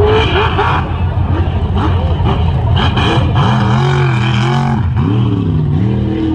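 Mega truck engines revving hard, the pitch climbing and dropping again and again as the throttle is worked, over a heavy low rumble; about six seconds in an engine settles into a steadier pitch.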